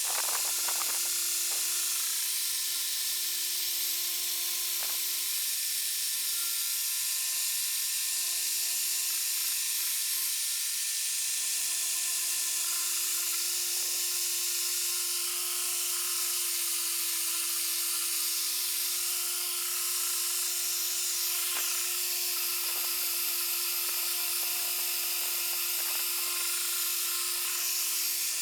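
Dual-action polisher (Kestrel DAS6 Pro) running steadily with a constant whine while polishing a plastic headlight lens, with a few faint knocks near the start and in the last third.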